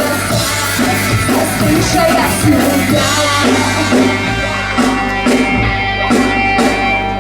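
Live rock band playing loudly, with sustained bass notes under the music. About halfway through the top end thins out and a run of sharp hits, about two a second, takes over.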